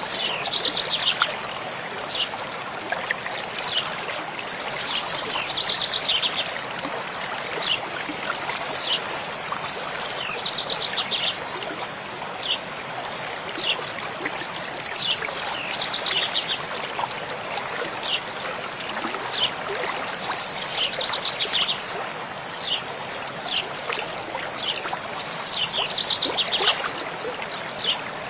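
Mountain stream flowing steadily, with a bird repeating a short, high song phrase about every five seconds and a few single chirps between.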